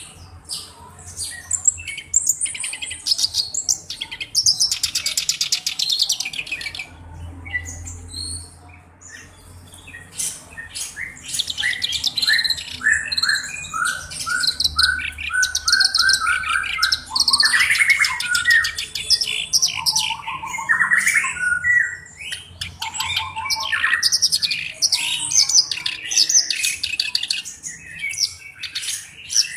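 Black-browed reed warbler singing a long, varied song of rapid harsh chattering and buzzy phrases, with a run of evenly repeated lower notes about twelve seconds in.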